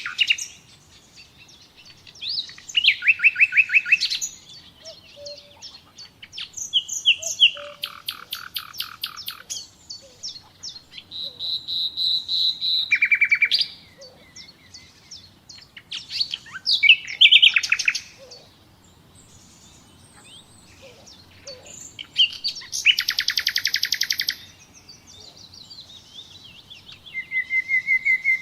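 Nightingale singing: about six separate phrases of rapid repeated notes and trills, one building up through a swelling series of pure whistles, with short pauses between them.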